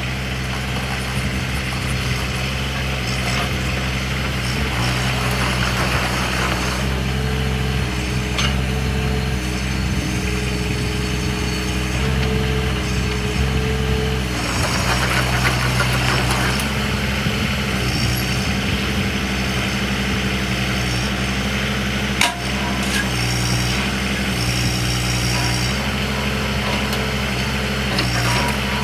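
Mini excavator engine running steadily, its pitch stepping up and down now and then, with patches of hiss and a single sharp knock about 22 seconds in.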